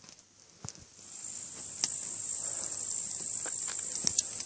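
Campfire of spruce branches crackling, with scattered sharp pops. From about a second in, a steady high-pitched hiss swells up and holds, becoming the loudest sound.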